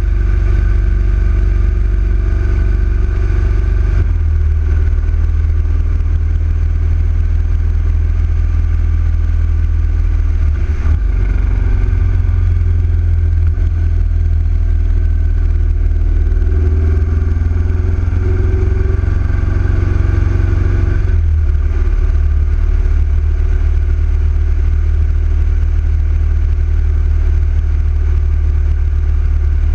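Big-bore Yamaha XV1900 V-twin motorcycle engine running steadily under way, its note shifting a few times as the throttle or gear changes.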